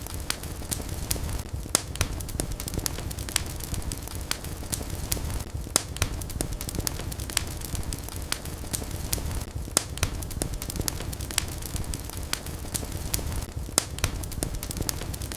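Wood fire crackling and popping in a fireplace: many sharp, irregular pops, several a second, over a steady low rumble of burning.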